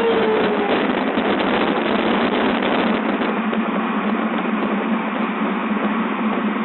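Hurricane simulator's blower running at full force, a loud steady rush of wind with a constant low hum, the air blasting over the microphone.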